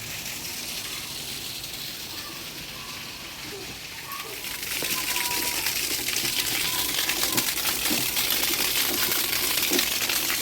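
Heavy rain falling, a dense hiss of drops that grows louder about halfway through.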